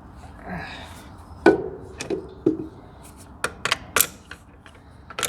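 Hand tools knocking and clinking against metal while working on an engine: three heavier knocks, then a quick run of sharp clicks near the end.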